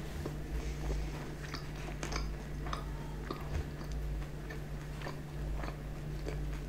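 Close-miked chewing of a mouthful of pizza with the mouth closed, with small wet clicks and smacks at irregular intervals.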